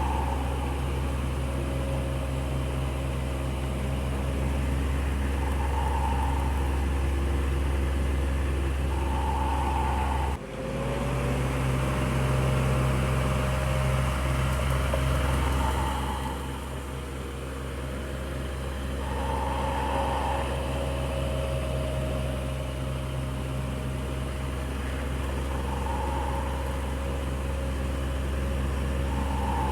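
Electric fan running with a steady motor hum and the rush of air, plus a soft swish that comes back every few seconds. The sound dips for an instant about a third of the way in, then carries on.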